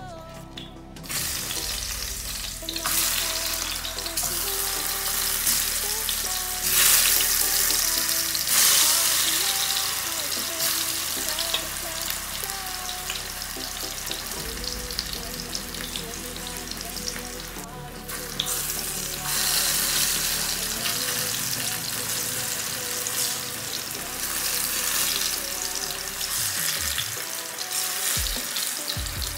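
Sliced plantain frying in hot oil in a pan. The oil sizzles loudly from about a second in, as the slices go into it, and keeps sizzling throughout.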